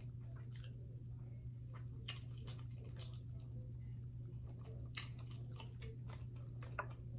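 Close-miked chewing and mouth smacks as a person eats chicken by hand, with irregular short clicks, over a steady low hum.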